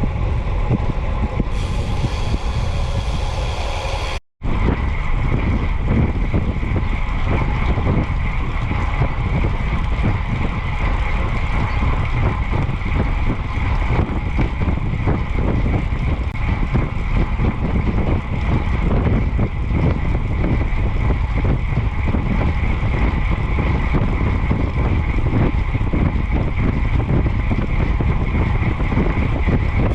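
Wind buffeting the microphone of a moving bicycle, with road noise underneath, steady and loud. There is a brief dropout about four seconds in.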